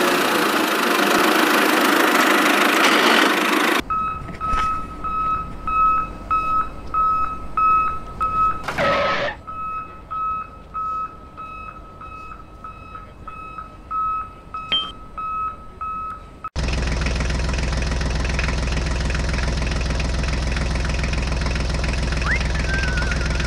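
A loud rush of noise for the first few seconds. Then a vehicle reversing alarm beeps steadily at an even pace, with a short whoosh partway through. About two-thirds of the way in, a low, steady tractor engine running sound takes over.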